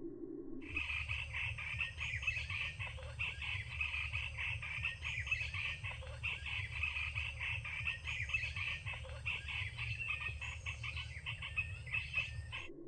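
Dense chorus of small birds chirping rapidly and continuously, with a steady low rumble underneath. It starts and cuts off abruptly.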